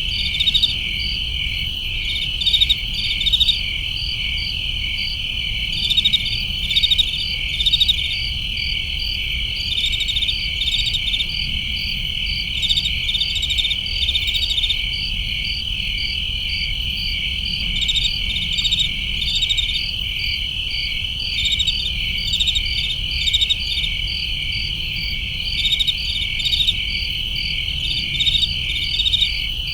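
Summer night chorus of crickets and other grass insects: a steady high trill, with groups of quick chirps pulsing over it every second or so. A low rumble runs underneath.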